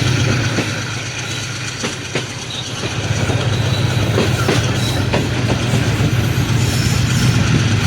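Train running on the rails behind an AGE30 'Blue Tiger' diesel-electric locomotive. The engine gives a steady low drone, and the wheels click irregularly over rail joints.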